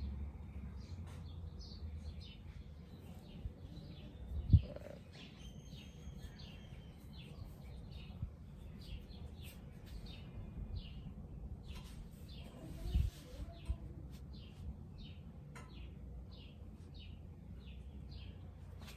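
Birds chirping in short, scattered calls over a steady low rumble, with a sudden sharp thump about four and a half seconds in and a few smaller knocks about thirteen seconds in.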